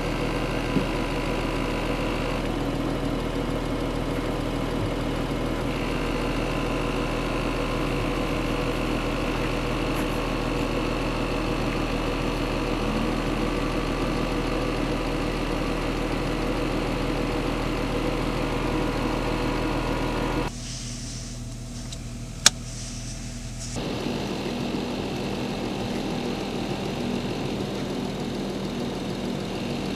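Volkswagen Touareg SUV's engine idling steadily. About two-thirds of the way through it drops away for a few seconds, with one sharp click, and then the steady idle comes back.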